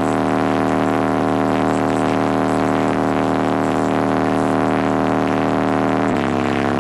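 Bass-heavy music played loud through a car-audio subwoofer system, holding one sustained low bass note that steps down to a lower note about six seconds in.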